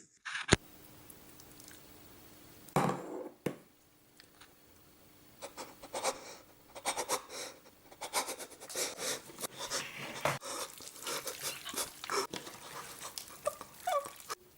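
Hands squishing and rubbing stuffing into a raw turkey, in many irregular short wet strokes, with a sharp click about half a second in.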